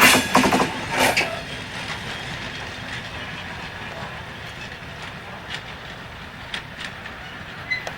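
Shunting train with timber wagons: a quick run of wheel clacks and knocks over rail joints in the first second, then a steady low rumble with a few single clicks.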